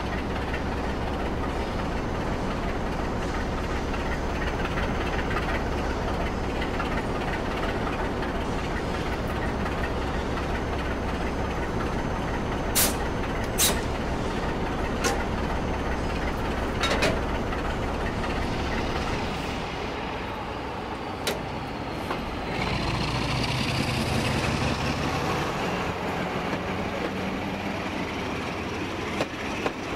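Sound-fitted OO-gauge model Class 47 diesel locomotive playing a diesel engine sound through its loudspeaker: a steady low engine note, broken by several sharp clicks, then the engine note changes and rises with a climbing whine about two-thirds of the way in.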